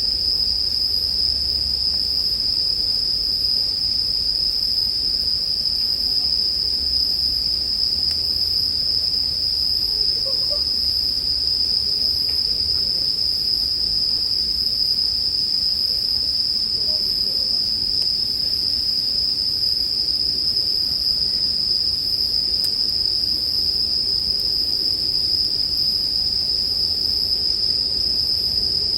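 Japanese bell crickets (suzumushi) chirping continuously, a steady high-pitched ring that never breaks, with the odd faint crackle of a campfire beneath.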